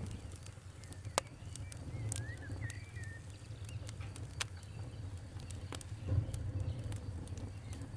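Wood fire crackling: irregular sharp pops and snaps over a steady low rumble of burning, with one louder snap about a second in. A few short chirps, like a bird's, come between about two and three seconds in.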